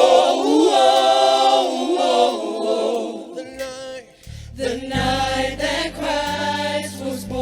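Voices singing a worship song in the style of a church choir, with held, sustained notes. About four seconds in, low bass notes from the accompaniment come in under the singing.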